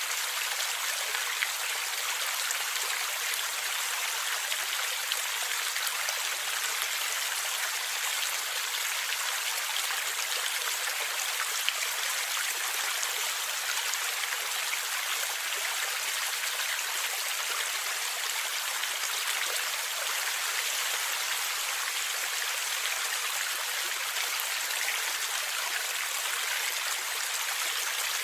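Stream water flowing and gurgling steadily, a fairly high, even rush with a few faint sharp splashes.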